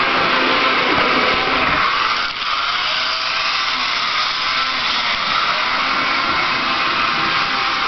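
HO-scale MDT Plymouth model locomotive running, its small motor and gearbox giving a loud, steady, high whir, with a brief dip a couple of seconds in.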